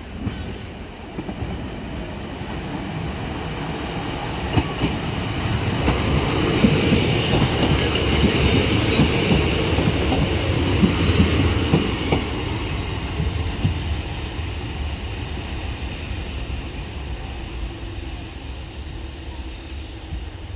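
Diesel multiple unit passing close by at low speed: engine rumble and wheels clicking over the rail joints. It grows louder to a peak about six to twelve seconds in, then fades as it draws away.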